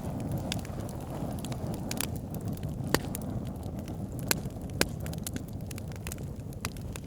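Wood fire crackling in a fireplace: a steady low rumble of burning with frequent small crackles and a few sharp pops, the loudest about three seconds in.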